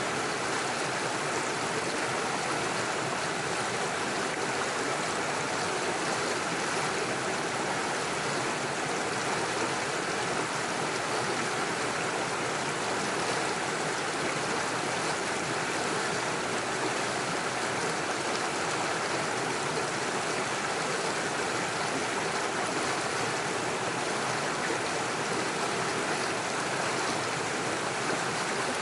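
Small forest stream splashing over stones and little waterfalls, a steady rushing flow.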